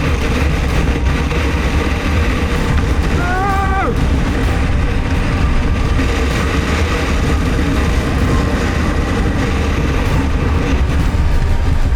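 Motorcycle running at road speed, a steady engine rumble mixed with wind noise on the camera microphone. About three seconds in there is a brief pitched sound that rises and then drops off sharply.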